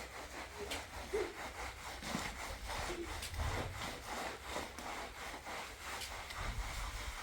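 Rhythmic scraping strokes, about three a second, each a short rasping rub.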